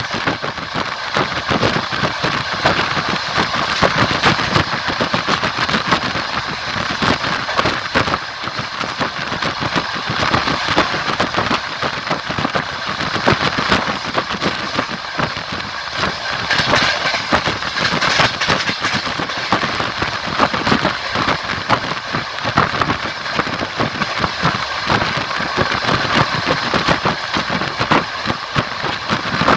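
Moving train: a steady rumble of wheels on track with constant clacking and rattling.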